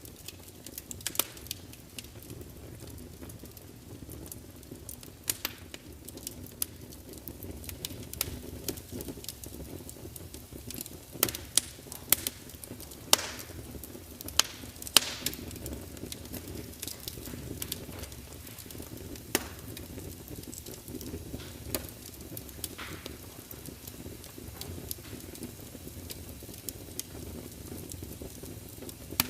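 Log fire burning in a large open fireplace: a steady low rumble of flames with frequent sharp crackles and pops of the burning wood, a bunch of louder pops coming close together around the middle.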